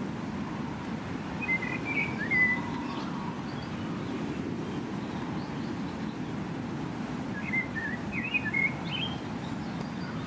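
Small birds chirping in two short bouts, one about a second and a half in and another about eight seconds in, over a steady low outdoor rumble.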